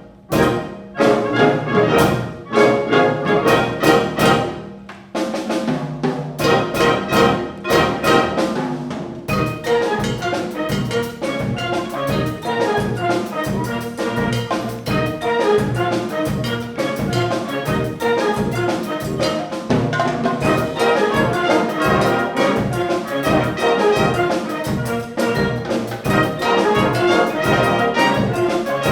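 Concert wind band playing, led by trumpets and trombones over percussion. It opens with short, punchy chords separated by brief gaps, and about nine seconds in it settles into continuous playing over a steady beat.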